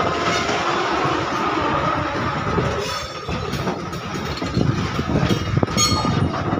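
Freight train's open-top box wagons rolling past, steel wheels clattering over the rail joints, with irregular knocks that grow busier in the second half and a sharp clank near the end.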